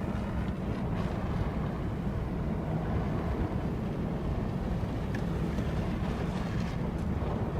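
Strong wind blowing over a phone microphone: a steady low rumble of wind buffeting.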